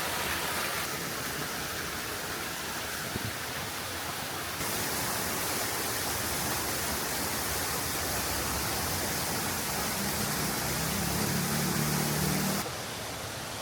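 Steady rush of a waterfall and its river, a dense even roar of falling water. Its level and brightness jump abruptly a few times, about a second in, near the middle and near the end.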